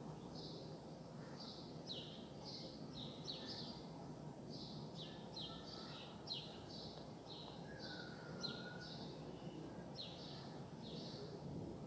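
A songbird calling again and again with short, high chirps that fall in pitch, roughly two a second, faint over a steady low background hum.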